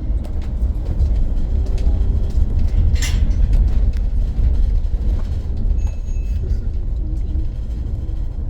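Cabin noise of a BYD BD11 battery-electric double-decker bus on the move: a steady low road and running rumble with scattered light rattles and clicks.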